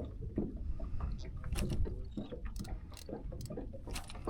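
Small-boat handling noise on the water: a steady low rumble underneath with scattered light clicks and knocks.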